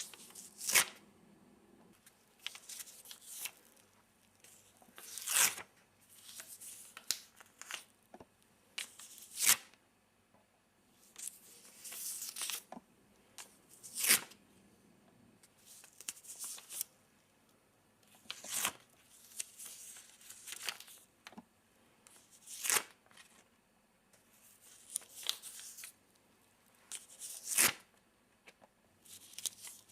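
Post-it notes being peeled off a pad and handled: short papery tearing rustles, with a sharp snap every four or five seconds and softer crinkling in between.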